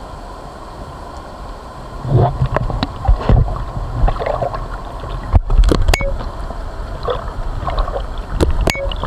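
Raft on a river: steady water and wind noise, then irregular knocks, thumps and splashes from about two seconds in.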